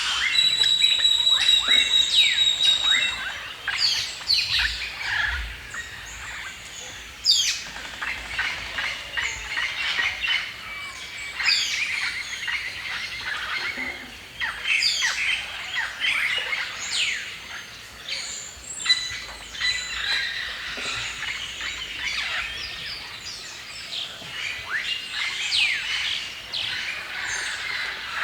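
A chorus of many songbirds chirping and singing, with calls overlapping throughout. It is loudest in the first few seconds, where a high, steady whistled note also sounds.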